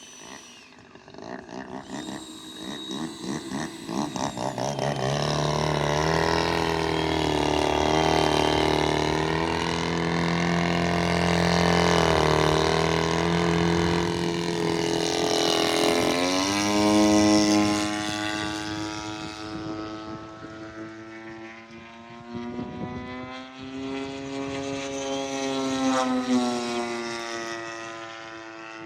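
Radio-controlled model airplane's engine and propeller running in flight, the pitch swelling and falling as it comes and goes. It is loudest on a close pass about 17 seconds in, where the pitch drops sharply.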